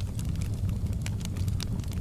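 Fire burning in a fireplace, crackling with irregular sharp pops over a steady low rumble of the flames.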